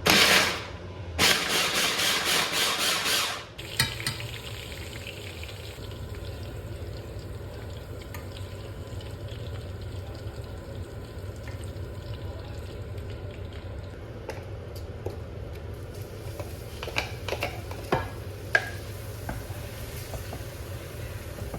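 Food frying in a pan and being stirred: two loud rushes of sizzling noise in the first few seconds, then a steady low sizzle. A few sharp clicks of a utensil against the pan come later.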